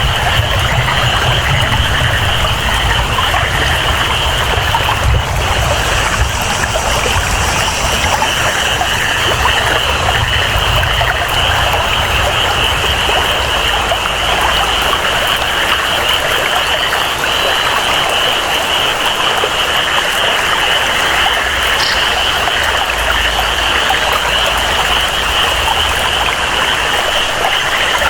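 Tropical rainforest ambience: steady rain and flowing water with a continuous high-pitched chorus of frogs over it.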